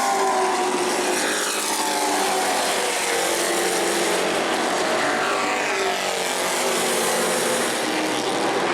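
Several race trucks' engines running hard on an asphalt short track, their overlapping tones gliding up and down in pitch as trucks pass by.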